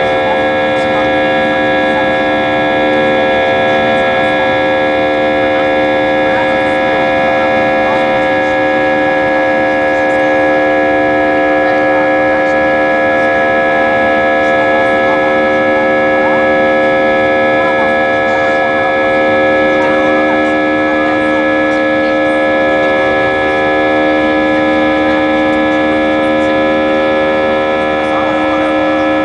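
Airbus A320's jet engines running steadily, a loud hum of many steady tones over a rushing noise. A lower tone strengthens near the end.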